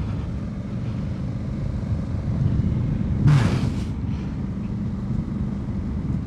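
Honda Africa Twin's parallel-twin engine running at a steady pace while riding, under a steady rumble of tyre and wind noise. A brief rushing burst comes about halfway through.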